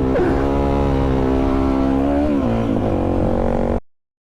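Motorcycle engine running at steady revs, then dropping in pitch a little past halfway as the throttle comes off. It cuts off abruptly near the end.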